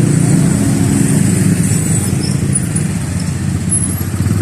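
Motorcycle engines running steadily in traffic, idling and moving off.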